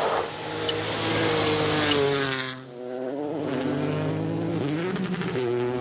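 Rally car engine running hard at high revs, its pitch stepping and sliding through gear changes, with a short lift about two and a half seconds in and the revs climbing again near the end.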